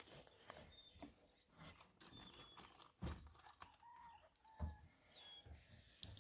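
Faint, scattered bird calls, a few short chirps and clucks, with a couple of soft thumps.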